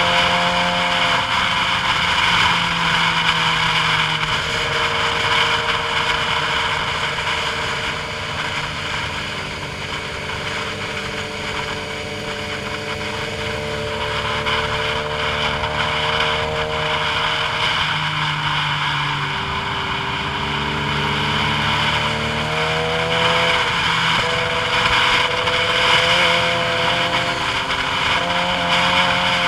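A vehicle engine running on a downhill ride, its pitch stepping down and sliding lower, then rising sharply about three quarters of the way through before dropping again. Steady wind and road noise run over it.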